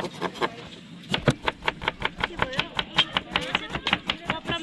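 Rapid chopping, about five sharp strikes a second, with voices talking among them.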